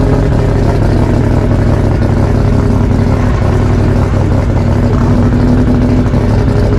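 Loud car engine running at a steady speed close to the microphone, its pitch wavering slightly.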